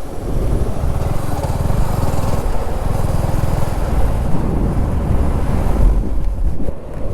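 A vehicle engine running steadily on the move, with road and wind noise over it; the level dips briefly near the end.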